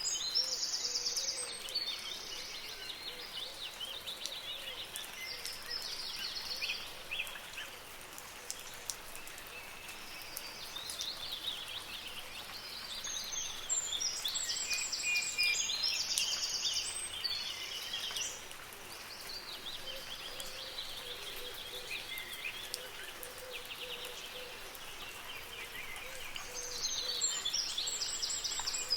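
Birds singing in bouts of quick, high chirping phrases, with a steady hiss of soft rain beneath. The song swells about every fourteen seconds, at the start, in the middle and again near the end.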